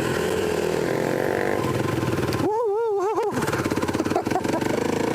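Dirt bike engine running while riding, a steady engine drone with a brief warbling, wavering tone about two and a half seconds in.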